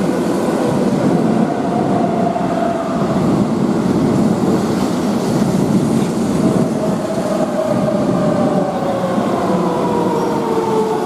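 Keihan electric train running close by, a steady loud rumble with wheels clacking on the rails. A motor whine falls slowly in pitch, most clearly in the second half, as the train slows.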